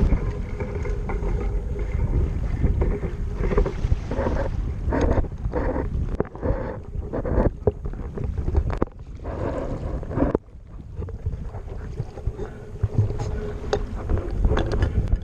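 Wind buffeting the microphone aboard a sailboat under way, with water washing against the hull and scattered short knocks from about four to ten seconds in.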